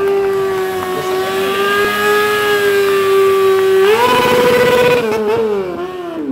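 Motorcycle engine held at high revs during a rear-wheel burnout: a steady high note for about four seconds, then it climbs higher, wavers and falls away near the end.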